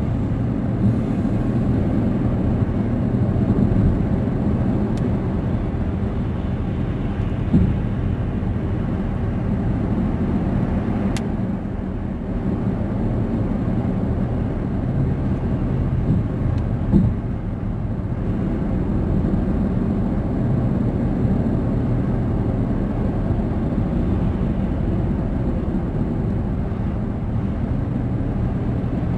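Car cabin road noise while driving: a steady low rumble of engine and tyres, with a few small knocks.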